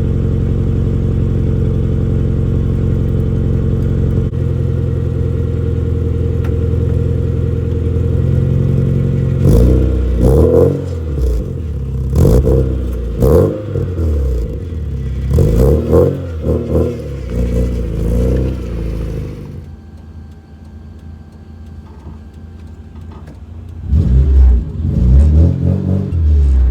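Nissan 240SX (S14) engine through an HKS Hi-Power exhaust, idling steadily for about nine seconds. Then come several rises and falls in engine speed as it is revved or accelerated, a quieter easing-off, and more revving near the end.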